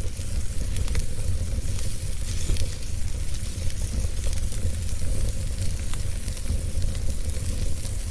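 Fire crackling in a fireplace: scattered sharp pops and snaps over a steady hiss and low rumble.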